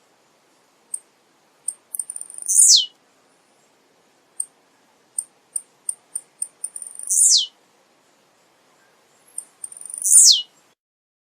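Male blue-black grassquit (tiziu) singing: three short high notes, each sweeping steeply down in pitch and lasting under half a second, spaced a few seconds apart, with quick high chips between them.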